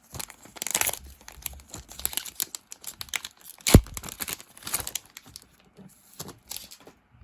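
Foil trading-card booster pack being torn open, its wrapper crinkling and crackling in irregular bursts, with one sharp knock a little past halfway.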